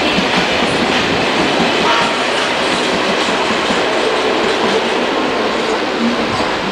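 KTX-1 high-speed train passing close by at speed: a steady loud rush of wheel and track noise with faint clicking as the trailer cars and rear power car go by.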